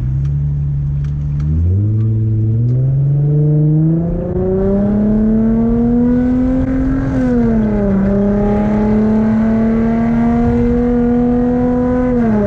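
Infiniti G35's 3.5-litre V6 engine and exhaust under acceleration. It starts low and steady, then climbs in pitch from about two seconds in. The pitch drops suddenly at an upshift about seven seconds in, holds steady, and drops again at another upshift near the end.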